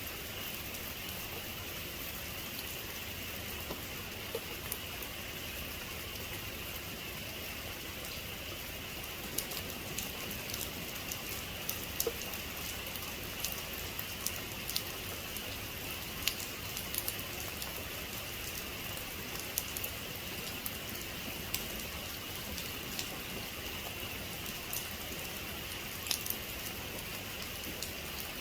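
Rain falling steadily as an even hiss, with scattered sharp drop impacts that come more often from about nine seconds in.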